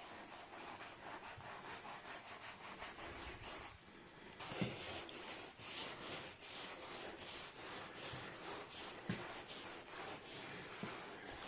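Rapid hand sanding strokes on the rusty steel safe, several strokes a second. They stop briefly about a third of the way in, then resume louder, with a couple of sharp knocks.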